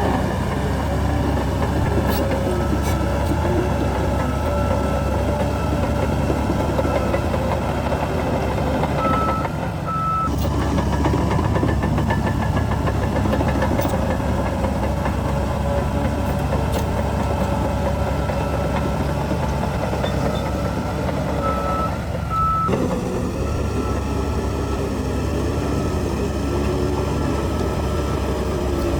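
Heavy diesel earth-moving machinery running steadily, with short reversing-alarm beeps a few times.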